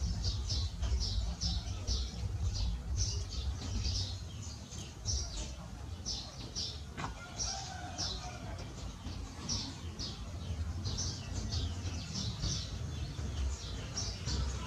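Birds chirping in quick, high, short notes, several a second, over a steady low rumble, with a single click about halfway through.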